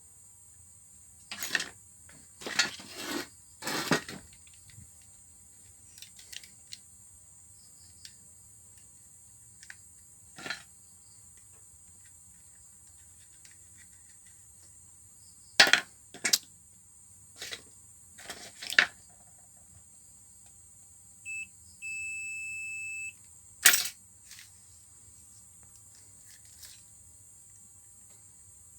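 Scattered clicks and knocks of tools and parts being handled, the loudest groups about 2–4 s, 16–19 s and 24 s in. About 21 seconds in comes a short electronic beep, then a steady beep lasting about a second and a half, over a constant high insect chirring.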